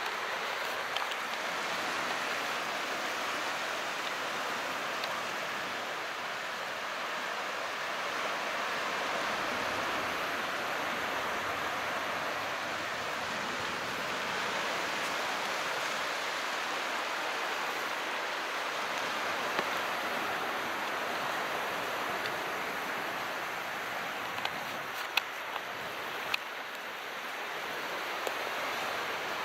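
Calm sea: gentle waves washing in, a steady rushing hiss that swells and eases slowly, with a few small clicks near the end.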